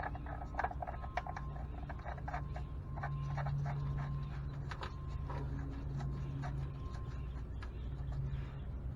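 Light, irregular metal clicks and scrapes as the oil drain plug is threaded back into the engine's oil pan by hand, over a steady low hum.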